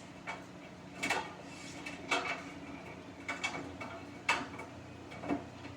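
Samsung washing machine drum turning with a jacket inside, giving a short clunk about once a second over a steady low hum.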